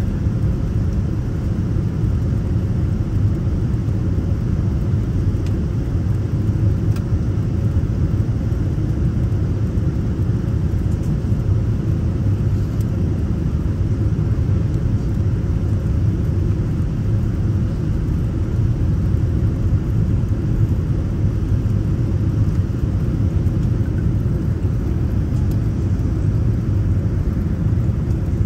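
Steady low rumble of an airliner cabin in flight, the drone of the jet engines and airflow.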